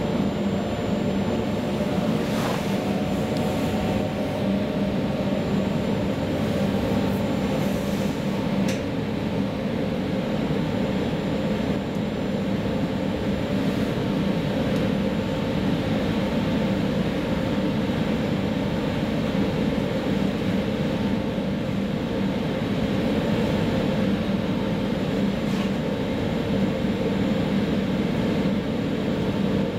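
Steady running noise inside a VR Sm4 electric commuter train at speed: a constant rumble of wheels on rails with steady humming tones underneath.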